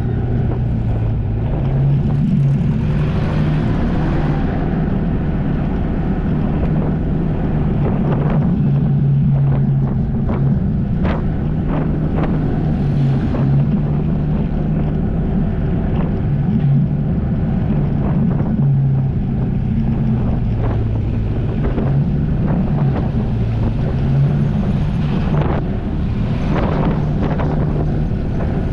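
Jet ski engine running on the water, its pitch stepping up and down as the throttle changes, with heavy wind buffeting the microphone and short slaps of water.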